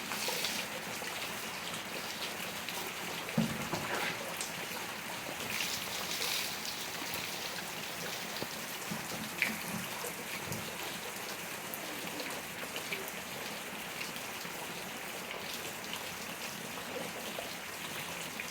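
Steady rain falling, a dense even patter, with a few sharper drops or knocks standing out, the loudest about three seconds in and again about nine seconds in.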